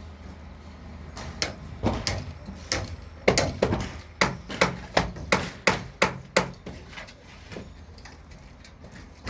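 A run of hammer blows, irregular at first, then about three strikes a second in a steady rhythm, before stopping with one last blow near the end.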